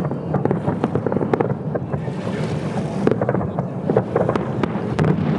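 Fireworks display: a dense, continuous run of overlapping bangs and crackles, with wind rumbling on the microphone.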